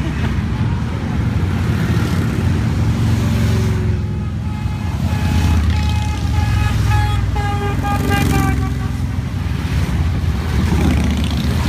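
A steady stream of motorcycles passing, their engines making a continuous deep rumble. About halfway through a horn sounds for roughly four seconds, dipping slightly in pitch as it ends.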